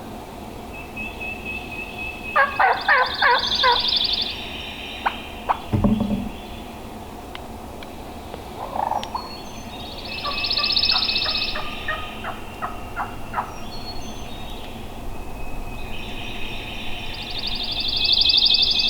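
Wild turkey gobbler gobbling three times, several seconds apart, each gobble a quick rattle of notes.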